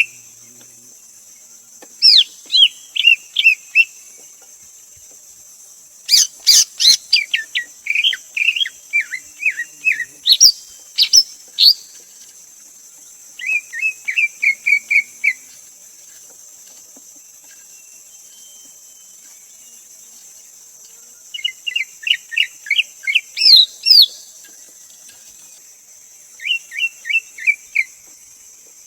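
Greater green leafbird singing: five phrases of quick, sharp whistled notes, each a couple of seconds long with pauses of a few seconds between. The longest and loudest phrase comes about six seconds in. A steady high hiss runs underneath.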